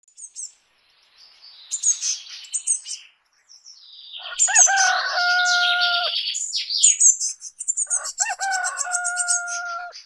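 Birds calling: high, quick chirps throughout, and twice a long call that starts with a few short bending notes and then holds one steady note for about two seconds, like a crowing rooster.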